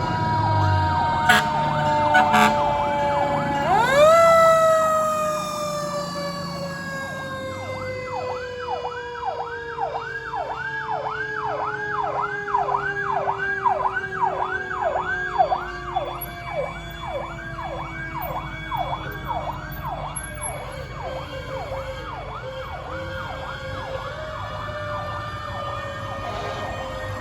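Fire truck sirens. One siren's wail jumps up sharply about four seconds in, then falls slowly in a long descending wail. From about eight seconds in, a second siren yelps rapidly, about twice a second, on top of it. There are two short sharp clicks in the first few seconds.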